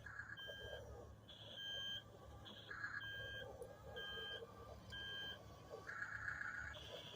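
Electronic beeping from a toy remote-control bulldozer: short high beeps about once a second, between harsher buzzing bursts, over a faint low hum.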